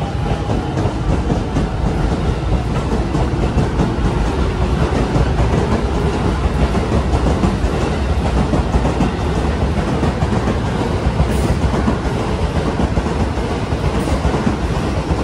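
A train running on the rails with a steady rumble, its wheels clicking over the rail joints.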